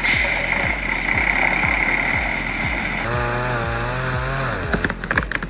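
A motor running over background music with a steady beat. About three seconds in, it gives way to a chainsaw engine running with a wavering pitch, followed by a few sharp clicks near the end.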